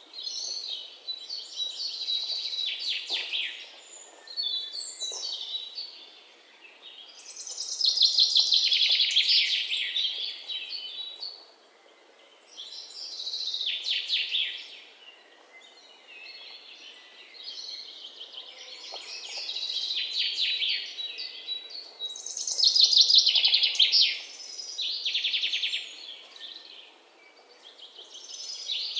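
Songbirds singing: high, rapidly trilled song phrases, each a second or two long, repeating every few seconds with short pauses between them. The loudest phrases come about 8 and 23 seconds in.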